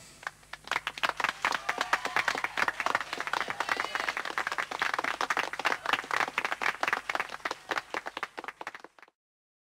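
Audience applauding with many hands clapping, which cuts off abruptly near the end.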